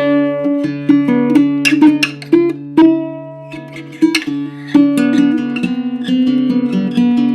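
Baritone ukulele with an ancient sitka spruce top and pernambuco back and sides, tuned like the top four strings of a guitar, played acoustically with no effects: a run of plucked single notes and chords over a ringing low note.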